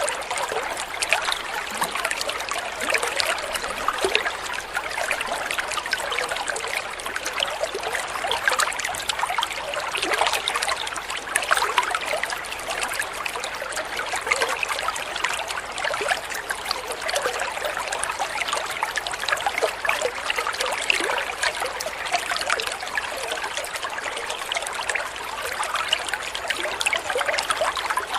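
Running water trickling and babbling steadily, a dense, unbroken patter of small splashes.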